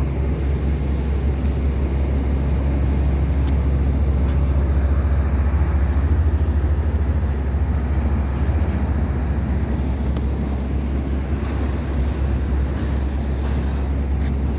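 Small wooden tugboat's engine running steadily under load while towing four heavy pontoons: a constant deep low hum with water and wind noise over it.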